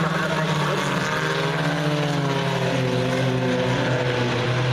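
Race car engines running together on the track: a steady low drone with several engine pitches rising and falling over it as the cars go round.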